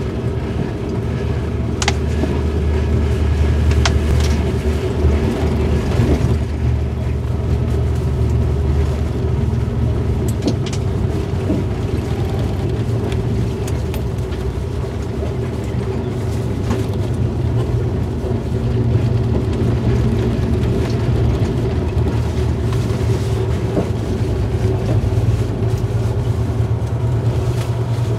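Passenger train running at speed, heard from inside the carriage: a steady low rumble of the wheels on the rails, with a few sharp clicks.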